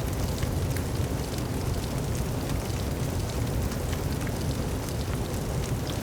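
Steady rain falling, with scattered sharp ticks of individual drops hitting close by.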